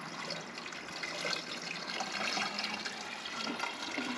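Windshield washer fluid pouring steadily from a jug into the car's washer reservoir.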